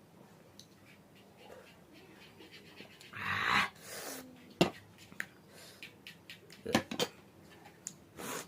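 Close-up mouth sounds of a person eating extra-spicy noodles: a loud, sharp breath about three seconds in, then a few sharp clicks and smacks.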